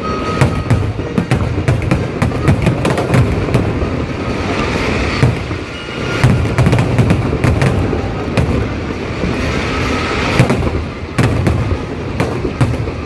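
Fireworks display: a dense, continuous barrage of booms and crackling bursts, many overlapping, over a steady low rumble.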